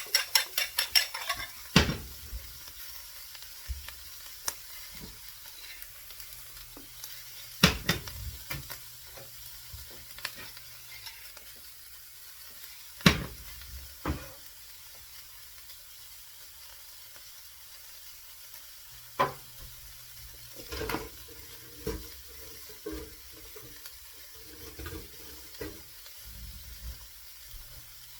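An omelette with potato, mushroom, onion and ham frying in a pan: a steady soft sizzle, with a quick run of utensil taps against the pan in the first second and a half, then occasional single sharp knocks.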